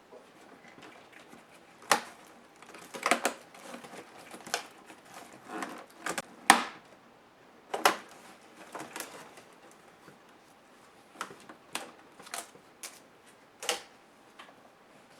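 Irregular clicks, taps and knocks of plastic laptop parts and small tools being handled as the laptop is disassembled, the loudest knock about halfway through.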